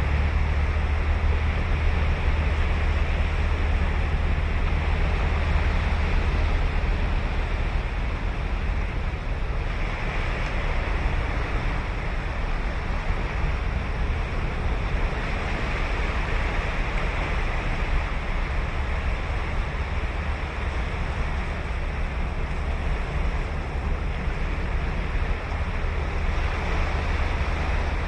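Ocean waves breaking and washing on a beach: a continuous surf hiss that swells and eases as each wave comes in. Wind on the microphone adds a low rumble, heaviest in the first few seconds.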